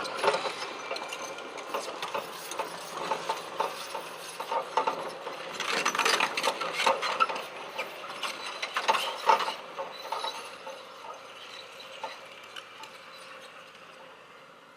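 Irregular clicking and rattling mechanical clatter with sharp knocks, busiest from about six to nine seconds in and fading near the end.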